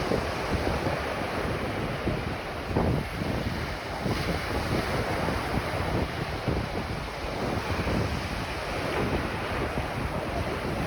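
Ocean surf washing steadily onto a beach, with wind buffeting the microphone in uneven gusts.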